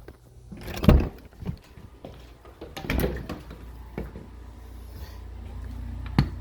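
A door being opened and shut: a heavy thud about a second in, another about three seconds in, and a sharp latch-like click near the end, over a low steady hum.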